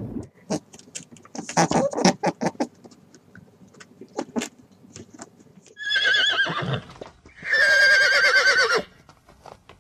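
Horse whinnying twice, both calls with a quavering pitch: a shorter one about six seconds in, then a longer, louder one about a second later. Before them comes a run of short clicks and rustles.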